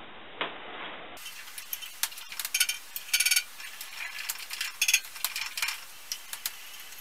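Harbor Freight 9-inch benchtop band saw with its wheels turned slowly by hand, the blade and wheels giving irregular light metallic clicks and clinks. The saw is being hand-spun unpowered to check that the new blade tracks on the wheel tires.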